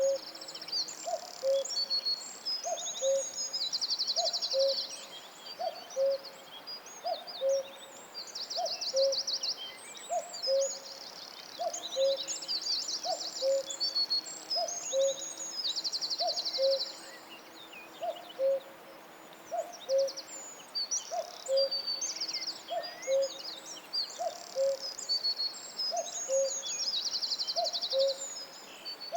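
Forest birds singing: a low two-note call, the second note lower, repeats about once a second throughout, over a chorus of high chirps and fast trills from smaller songbirds.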